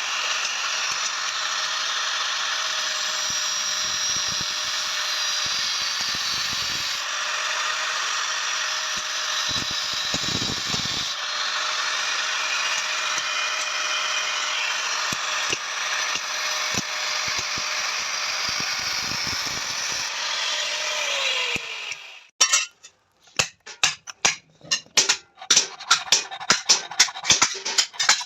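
An electric power tool runs steadily under load with a hissing grind of steel, then is switched off about 22 seconds in and winds down. A quick series of sharp metal taps and knocks follows.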